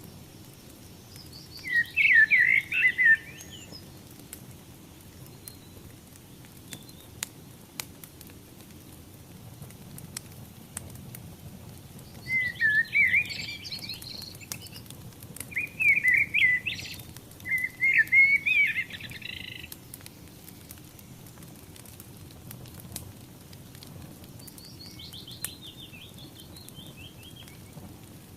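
A songbird singing short, quick warbling phrases, four loud ones and a fainter one near the end. Under the song runs the steady low sound of a wood fire with scattered small crackles.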